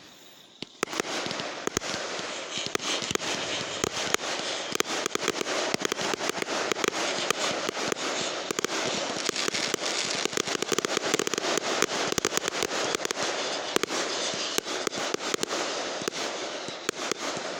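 Fireworks going off in a dense, continuous crackle of rapid sharp pops, starting about a second in.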